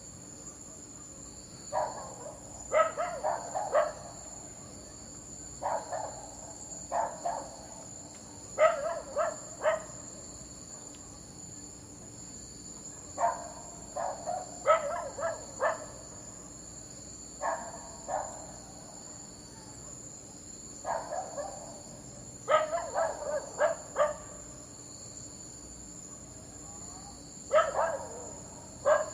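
A dog barking in short volleys of two to five barks, with a pause of a few seconds between volleys. A steady, high-pitched insect-like trill runs underneath.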